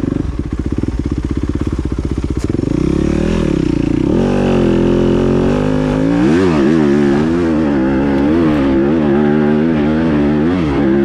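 Dirt bike engine accelerating hard in third gear. It starts with slow, low pulses, then the pitch climbs from about two and a half seconds in and holds high from about four seconds, wavering up and down as the throttle is worked.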